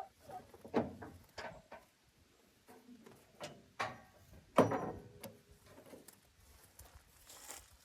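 A handful of irregular knocks and clunks, as of hard objects being handled or set down, the loudest about four and a half seconds in.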